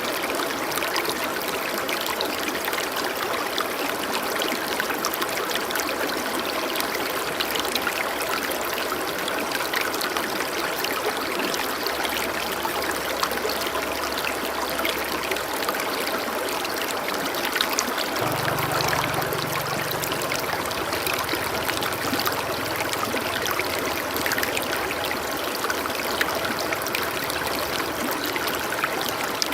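Running water flowing in a steady, even rush, like a stream. A faint low tone sounds underneath twice, about twelve seconds in and again about eighteen seconds in.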